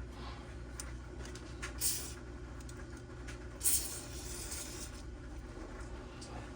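Two short sprays of aerosol carburetor cleaner hissing into a small two-stroke carburetor as its diaphragm side is rinsed of gummy residue, with a few light clicks of handling and a steady low hum underneath.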